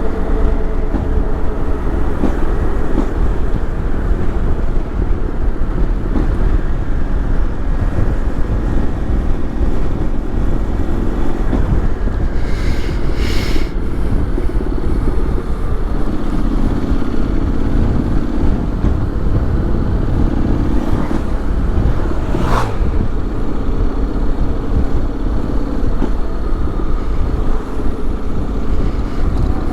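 Honda X-ADV 750 parallel-twin engine running on the move, under heavy wind rumble on the microphone. The engine note swells and eases several times with the throttle, with a short hiss about halfway through and a brief sharp noise a little later.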